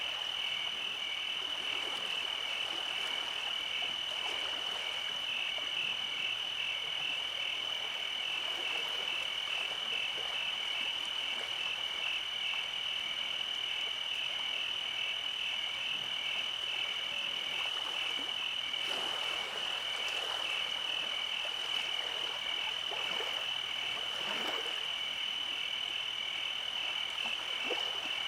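Night chorus of frogs: a continuous high, rapidly pulsing trill that stays even throughout, with faint scattered calls beneath it.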